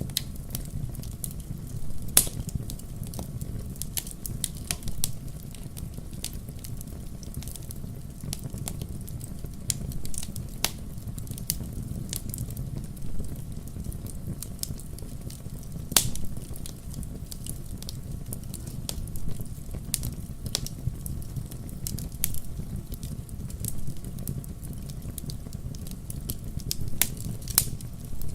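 Wood fire burning in a fireplace: a steady low rumble of flame with scattered sharp crackles and pops, a few of them louder, about two seconds in and near the middle.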